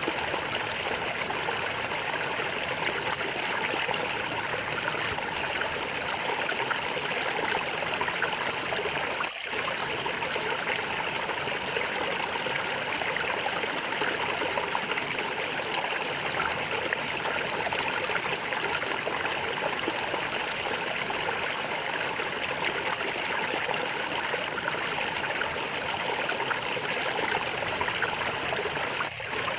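Flowing stream water gurgling in a steady, continuous rush, briefly dipping about nine seconds in and again near the end.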